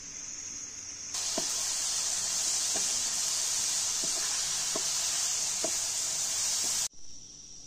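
Chicken stuffing of onions, herbs, walnuts and berries sizzling in an oiled frying pan as a wooden spoon stirs it, with about six light spoon knocks against the pan; the sizzle starts and stops abruptly about a second in and near the end. Crickets chirp steadily before and after it.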